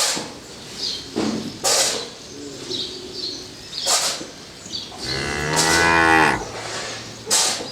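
One of the cattle moos once, a single long low call of about a second and a half starting about five seconds in. A few sharp knocks sound before and after it.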